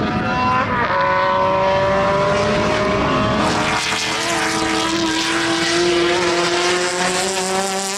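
Race car's engine pulling hard under acceleration, its pitch climbing steadily, with a brief dip about a second in.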